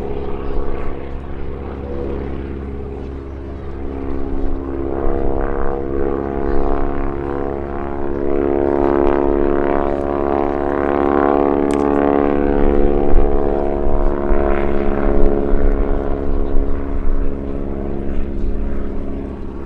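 Super Stearman biplane's 450-horsepower radial engine and propeller droning in flight, a steady multi-toned note that grows louder about a third of the way in and stays strong as the aircraft passes.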